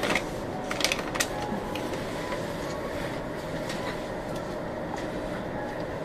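Steady hum of a stationary SR1-series electric train at a platform, its onboard equipment running. A few sharp clicks come about a second in.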